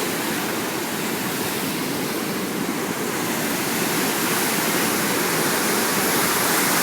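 Flood-swollen river water rushing and churning where the Amity and Lester Rivers meet. It is a steady dense roar that grows a little louder about four seconds in.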